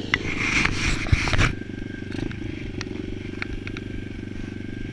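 Motocross bike engine idling steadily. Over it, loud rustling and a few sharp knocks stop about a second and a half in.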